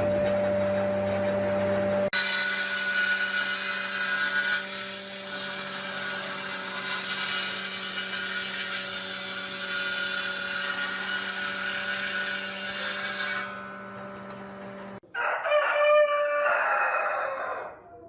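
A power tool runs steadily with a hum and a noisy whir, changing suddenly about two seconds in and stopping around fifteen seconds in. Near the end a rooster crows once.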